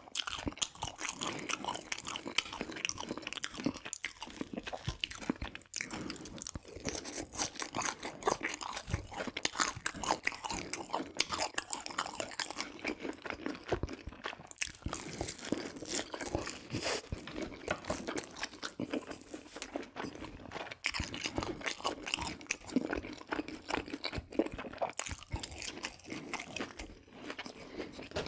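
Close-miked crunching and chewing of crispy fried food: a dense, irregular run of crisp crunches as bites of fried batter are chewed.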